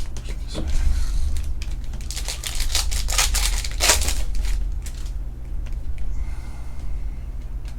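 A Panini Prizm UFC trading-card pack being torn open and its cards handled: crinkling and crackling of the wrapper, loudest about two to four seconds in and then fainter, over a steady low hum.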